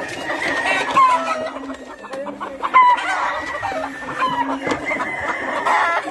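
Several Yellow Legged Hatch gamefowl roosters crowing over one another, with hens and birds clucking in between.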